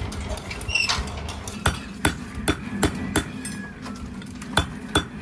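Hammer blows: a run of about five sharp knocks a bit under half a second apart, then a few more after a short pause, over a steady low hum.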